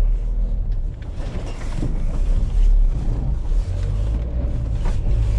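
Vehicle on the move: a steady low engine and road rumble, with wind on the microphone.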